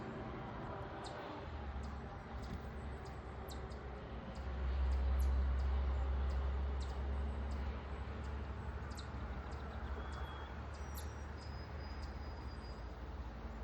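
Small backyard songbirds chirping: scattered short, high chirps and a few brief whistled notes, over a steady low rumble that swells about four and a half seconds in and eases off a couple of seconds later.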